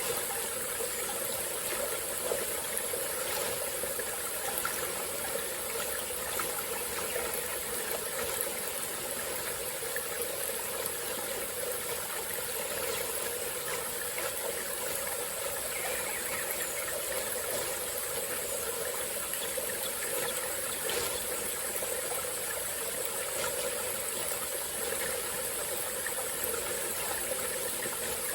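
Small tropical-forest stream flowing steadily, the water running and trickling without a break, with a steady high-pitched hiss above it.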